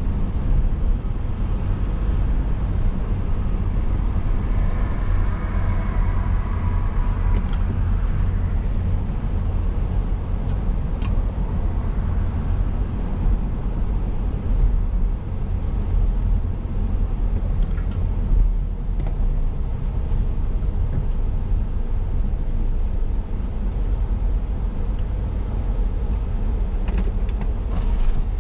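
Road noise of a moving car heard from inside: a steady low rumble of tyres and engine, with a brighter swell about five seconds in and a few faint ticks.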